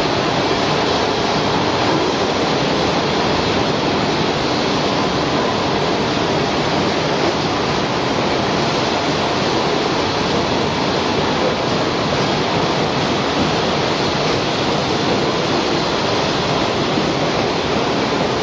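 High-speed welded steel pipe mill running: a loud, even noise with no distinct knocks, tones or rhythm.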